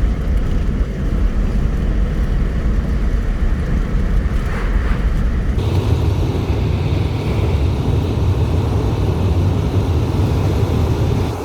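A car on the road: a steady low rumble of engine, tyre and wind noise, which shifts slightly and grows a little heavier about halfway through.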